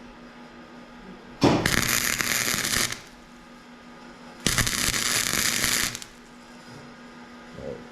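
Flux-core wire-feed welder arc crackling and sputtering in two short welds on exhaust tubing, each about a second and a half long, the second starting about three seconds after the first ends.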